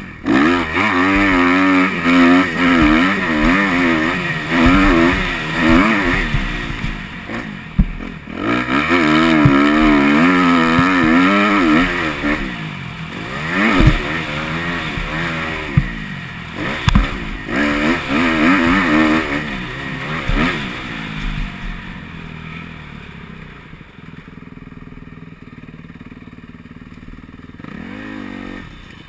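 Motocross bike engine running hard on the track, its pitch rapidly rising and falling as the throttle is worked. It backs off twice along the way, and for the last several seconds it runs quieter and steadier.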